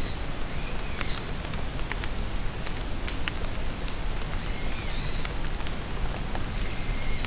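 Steady rain falling in a forest, with sharp ticks of single drops. A bird sings short high phrases three times: about half a second in, around four and a half seconds, and near the end.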